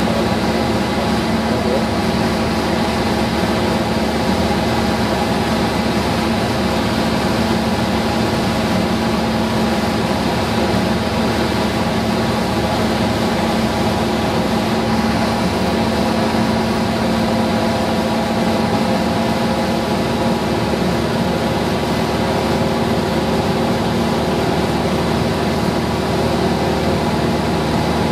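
Cessna 172's piston engine and propeller heard from inside the cockpit, a steady unchanging drone with a strong low hum and wind noise.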